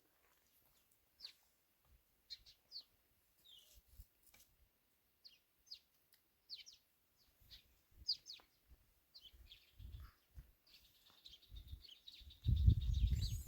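Small birds chirping in short, high calls scattered throughout, with a rapid trill near the end. About a second before the end, a loud low rumbling noise sets in.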